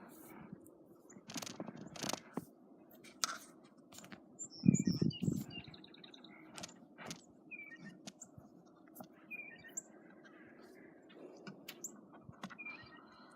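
Small birds chirping at intervals, over irregular crunching and scraping clicks, with one heavier thump about five seconds in.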